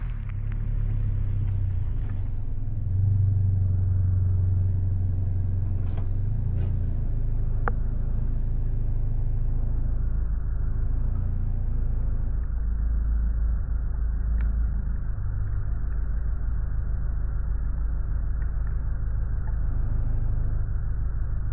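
A 2020 Subaru Impreza with an aftermarket axle-back exhaust running at a steady cruise on a snowy road: a low, even engine and exhaust drone over tyre and road rumble, with a few faint clicks.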